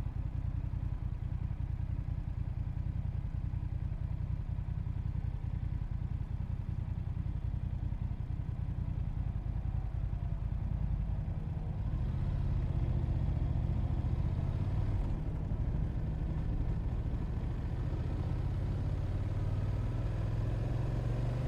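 Motorcycle engine running steadily; about twelve seconds in its note changes and it grows a little louder.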